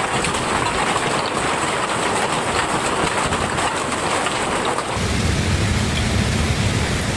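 Heavy rain pelting down in a dense, crackling patter. About five seconds in, it cuts abruptly to a deeper, heavier rushing storm noise.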